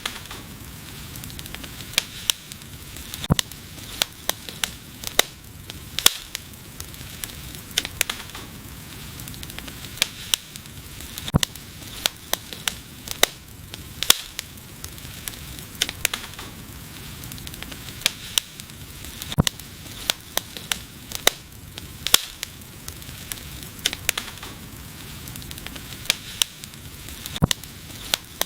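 Wood fire burning: a steady soft hiss with frequent sharp, irregular crackles and pops from the burning wood.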